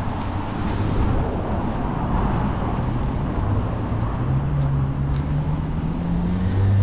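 Wind rumbling on the microphone over outdoor traffic noise. About four seconds in, a vehicle engine's steady hum comes in and rises slightly in pitch as it draws closer.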